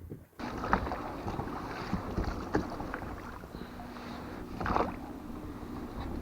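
Small boat being rowed: water sloshing and splashing against the hull, with scattered knocks, and a louder splash near the end.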